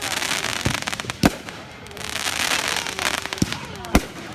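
Fireworks going off: four sharp bangs, the loudest about a second in, over stretches of dense crackling.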